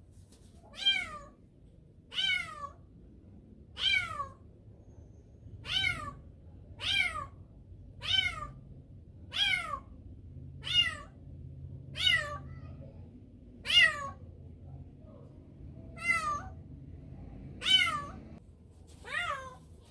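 Kitten meowing over and over: about thirteen short, high meows, each falling in pitch, one every second or two.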